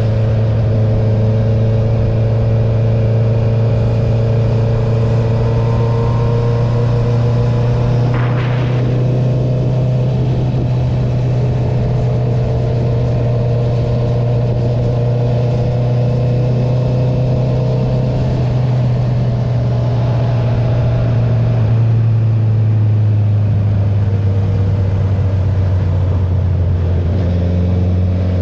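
Honda CB650R's inline-four engine running at a steady cruise through an Akrapovic titanium full exhaust with the dB killer removed. Its note drops a little in pitch about two-thirds of the way through.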